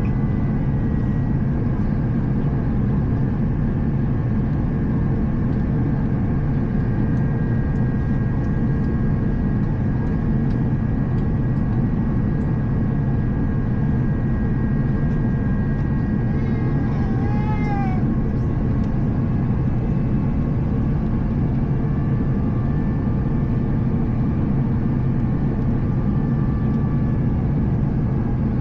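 Steady, loud rumble of an Airbus A350's cabin in flight, engine and airflow noise with faint steady tones above it. About 17 seconds in, a brief high pitched wavering cry rises and falls over it.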